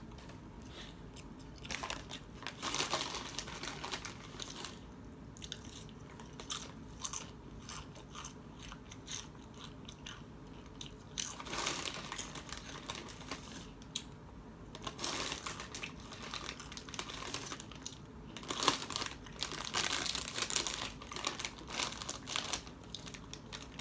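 Close-up eating sounds: a person bites, chews and crunches food, a tuna salad sandwich and Doritos chips, in several separate bursts of crunching. Near the end a crinkly chip bag rustles as a hand reaches into it.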